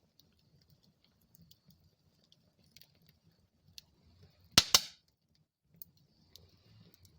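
Wood fire in a fireplace crackling with sparse small ticks over a soft low rumble, and two sharp pops in quick succession about halfway through.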